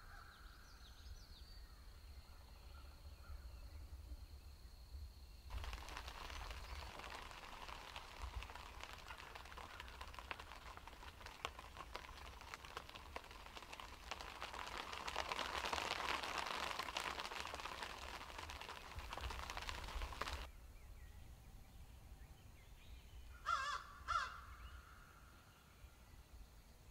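Two loud bird calls in quick succession near the end. Before them, through most of the middle, a steady rushing noise that cuts in and out abruptly.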